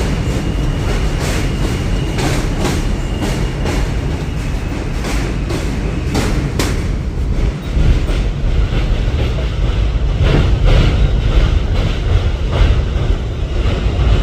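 New York City subway F train pulling out of the station: a steady low rumble with wheels clicking over the rail joints at uneven intervals, and a thin high whine during the first few seconds.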